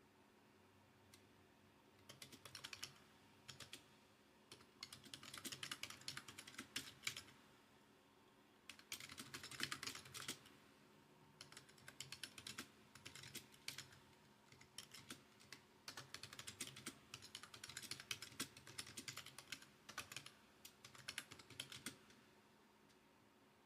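Faint typing on a computer keyboard: runs of rapid key clicks starting about two seconds in, broken by short pauses, as a text prompt is typed.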